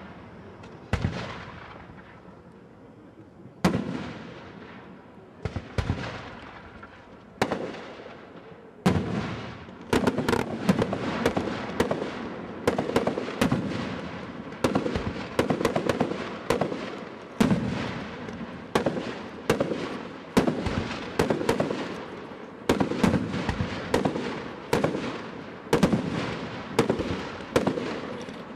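Fireworks display: single bangs from aerial shells a couple of seconds apart, each trailing off, then from about ten seconds in a continuous barrage of bangs and crackling, several a second.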